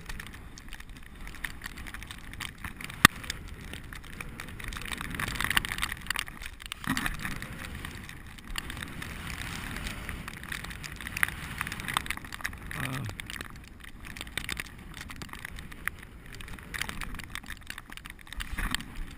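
Bicycle being ridden over snow: continuous tyre and road noise with rattles of the bike, and one sharp loud click about three seconds in.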